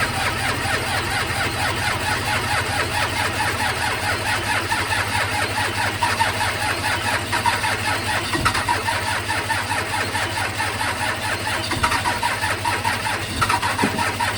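12-valve Cummins 5.9 L inline-six diesel being cranked over by its starter in the cold, turning over at a steady pulsing rhythm for a long time without catching: a cold-soaked engine slow to fire.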